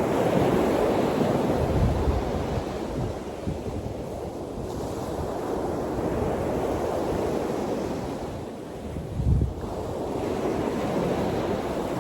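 Wind rushing and buffeting the microphone outdoors, a steady roar with a couple of stronger low gusts, about two seconds in and again near the end.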